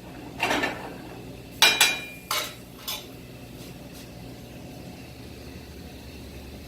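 Kitchen utensils clinking and knocking against a pan and dishes: a handful of separate clinks in the first four seconds, the loudest, about two seconds in, with a brief metallic ring.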